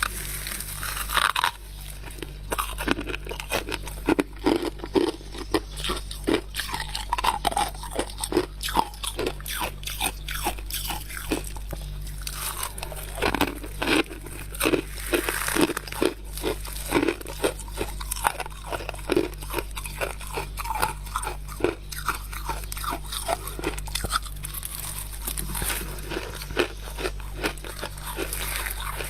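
Freezer frost being bitten and chewed close to the microphone: dense, irregular crunching bites, several a second, over a steady low hum.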